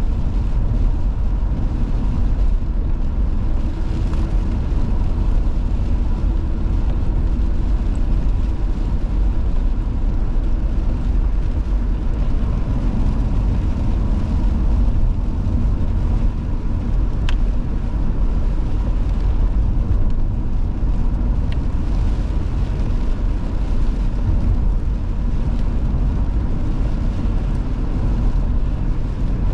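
Car driving at a steady pace: an even, low rumble of engine and tyres on the road, with no changes.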